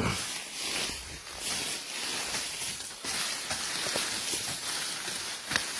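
Rustling and crackling of vegetation and brush, with irregular small knocks and one sharp click near the end.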